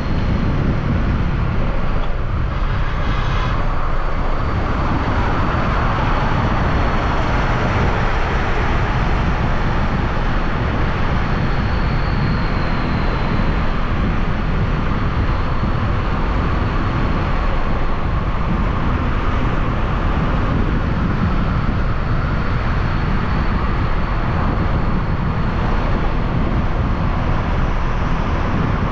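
Wind rushing over the microphone and road noise from a motorbike riding along, with its engine running underneath, steady and loud.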